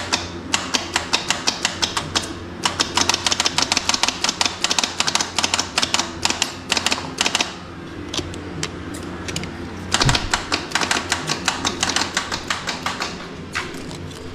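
Starter solenoid of a 1983 Honda Civic chattering: rapid runs of sharp clicks as the key is held in start, with no cranking, in three bursts. A flat battery cannot hold the solenoid in.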